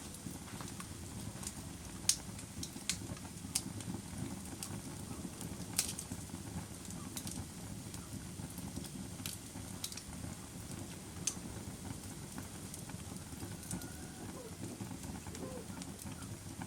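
A fire crackling: a steady low rumble of burning with irregular sharp pops and snaps, a few louder ones standing out.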